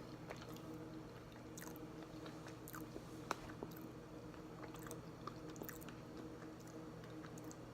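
Close-miked chewing of a salted caramel protein bar: faint, scattered small clicks from the mouth, with one sharper click a little past three seconds in.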